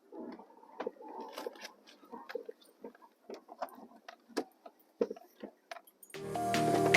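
A scattering of faint, irregular small clicks and knocks with light rustling. Near the end, background music starts up.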